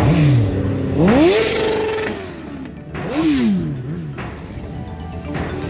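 Superbike engines revving: the pitch climbs and holds about a second in, drops away, then a shorter rev rises and falls about three seconds in, with gusts of wind rush.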